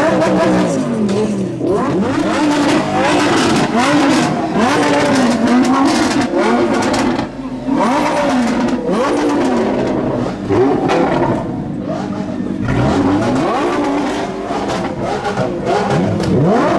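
Lamborghini Huracán Spyder's 5.2-litre V10 being revved again and again, its pitch rising and falling roughly every second. Near the end it climbs more steeply as the car pulls away.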